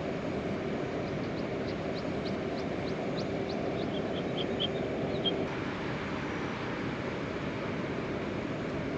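Steady rain falling, an even hiss, with a bird calling over it: a quick run of short falling chirps followed by a few short notes, ending a little past the middle.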